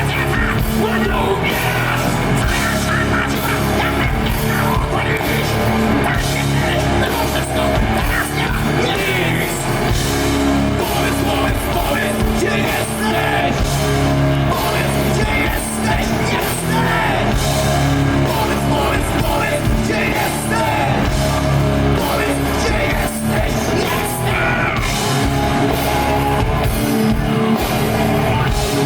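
Heavy rock band playing live: distorted electric guitars, bass and drums, with sung and yelled vocals.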